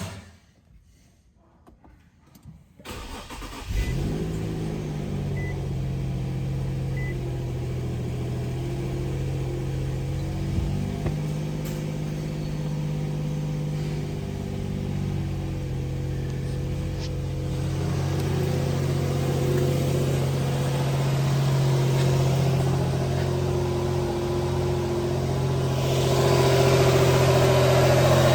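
2012 Infiniti EX35's 3.5-litre V6 engine started about four seconds in, then running at a steady idle that grows somewhat louder near the end.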